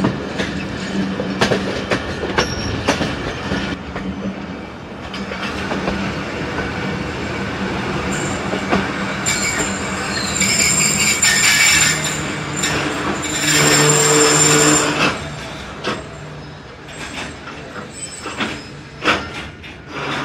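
Thal Express passenger train running into a station, heard from an open carriage door: wheels clicking over rail joints under a steady rush. A high wheel-and-brake squeal rises through the middle as the train brakes, then the running grows quieter as it slows alongside the platform.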